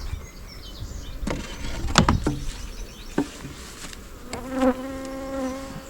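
Honeybees buzzing at an open hive, with a few sharp knocks and clicks in the first half. About two-thirds of the way in, one bee buzzes close to the microphone in a steady buzz for over a second.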